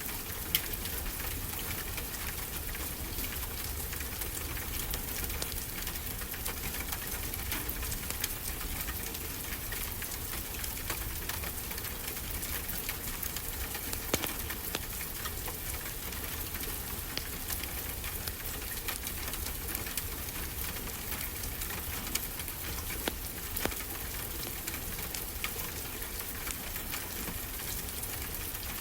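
Wood fire crackling, with frequent small irregular pops over a steady hiss and a low rumble of ocean surf.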